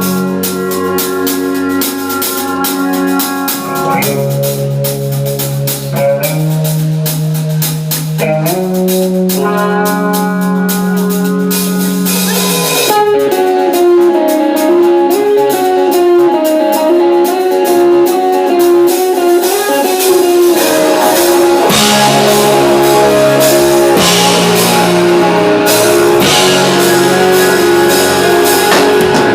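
A band playing with guitar and drums: held chords change every couple of seconds over steady cymbal hits, then about 13 seconds in the music gets louder, with a wavering lead melody over the full band.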